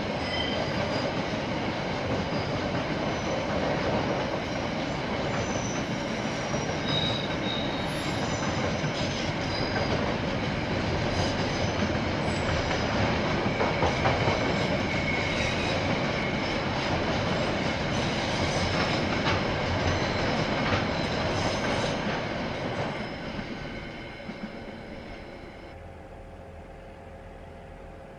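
A KiwiRail train rolling past, a steady loud rumble of wheels on rails with several high, thin, steady tones from the wheels. The noise dies away from about 23 seconds in, leaving a quieter low steady hum.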